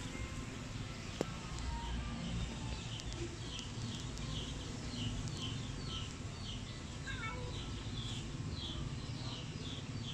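A bird calling over and over, short high falling chirps about twice a second, starting about three seconds in, over a steady low hum.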